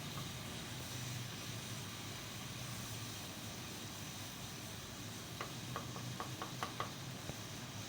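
Steady hiss of a pan of jelly mixture heating on the stove, with a low hum under it. About five and a half seconds in comes a quick run of light clinks, a spoon against the pan as the jelly is stirred.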